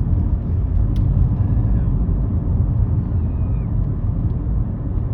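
Steady low rumble of a car, heard from inside the cabin with the windows up.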